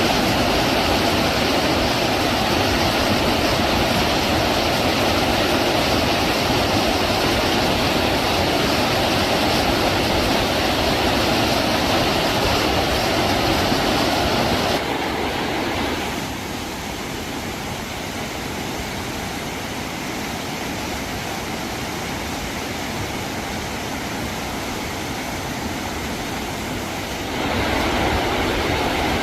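Steady, loud rushing noise with no clear pitch. It drops in level about halfway through and rises again near the end.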